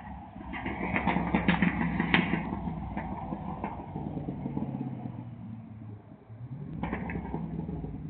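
Pickup truck engine revving, with sharp exhaust crackles over the revs: one long rev in the first couple of seconds and a shorter one near the end, running lower in between.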